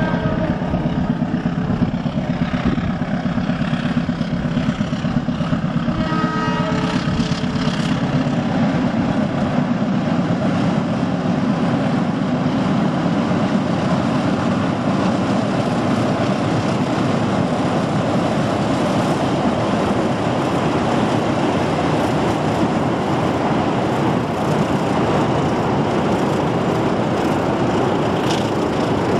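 Diesel-hauled passenger train crossing a steel truss railway bridge: a continuous rumble of wheels and cars. A brief locomotive horn blast sounds about seven seconds in.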